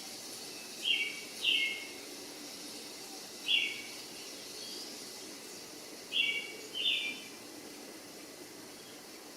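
Bird calls: five short, slightly falling calls, mostly in pairs, over a steady background hiss.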